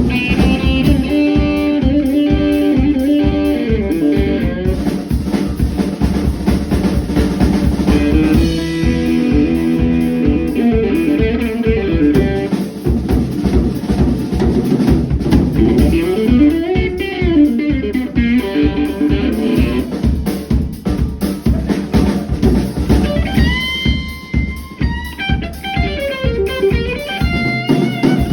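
Band music with guitar and a drum kit playing a steady, foot-tapping groove.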